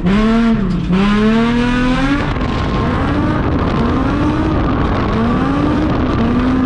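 Drift car engine revving hard through a drift run, its pitch rising and dropping sharply as the throttle is worked. From about two seconds in it turns to a steadier rise and fall in pitch over a broad rushing noise.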